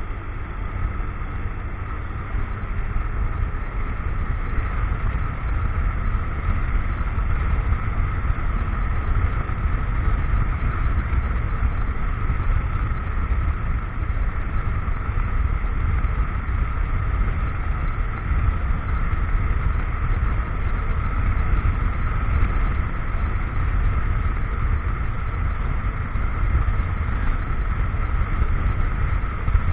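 A motorcycle on the move, heard through an action camera's microphone: steady wind rumble on the microphone over the running engine and road noise, getting a little louder over the first several seconds.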